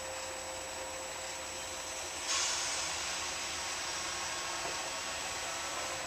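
A steady background hiss; about two seconds in, a louder rushing hiss starts suddenly and holds steady.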